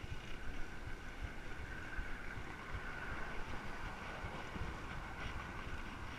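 Wind buffeting a microphone carried on a moving bicycle, in uneven low gusts, with a faint steady whir above it.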